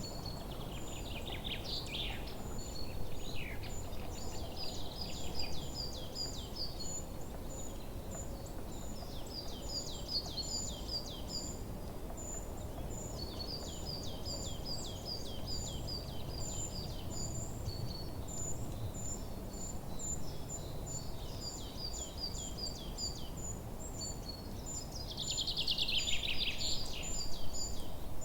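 Forest birdsong: several birds sing short trilled phrases in bouts, with one louder song in the last few seconds. Behind them a high thin chirp repeats a few times a second and a faint low rush of ambient noise runs throughout.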